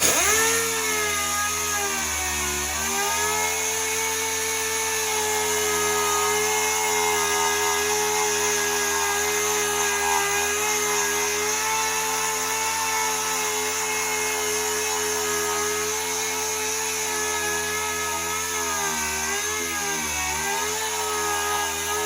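Power sander starts up and runs steadily, sanding the car's body panel down through the original paint. Its whir sags briefly in pitch about two seconds in and again near the end, as it is pressed harder against the panel.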